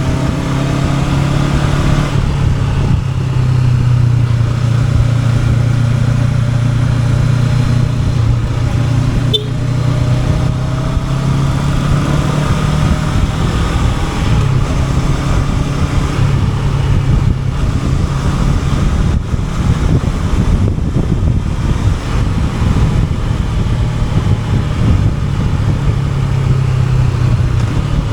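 Honda NX500's parallel-twin engine running at a fairly steady pace while riding, its pitch drifting slightly, over a steady rush of wind and road noise. A short click about nine seconds in.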